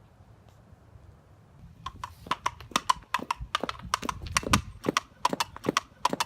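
Clip-clop of mock horse hooves: quick, uneven hollow knocks starting about two seconds in.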